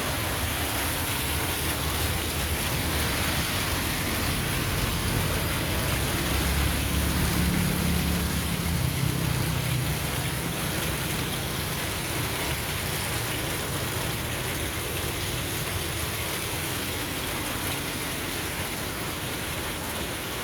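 Steady rain falling and pattering on surfaces. A low rumble swells and fades about seven to ten seconds in.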